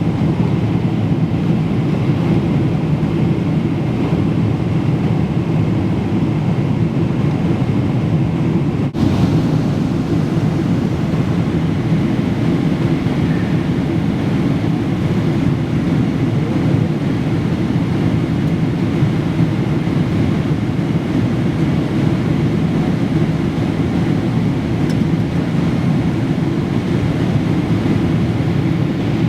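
Steady roar of airliner cabin noise, jet engines and airflow, strongest in the low range, with a brief break about nine seconds in.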